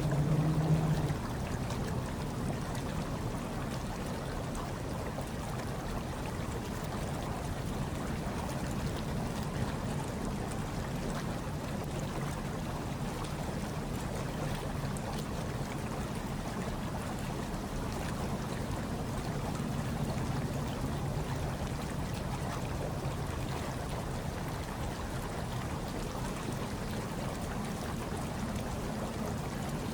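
Hot tub water bubbling and churning steadily, a continuous even rush of water with a low hum underneath that is a little louder for about the first second.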